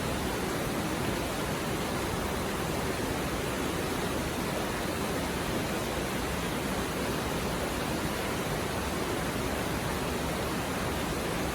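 Mountain stream babbling: a steady, even rush of shallow flowing water with no breaks.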